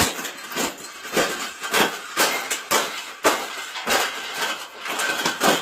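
Cage being bent and folded by hand: an irregular run of sharp clanks and knocks with scraping in between.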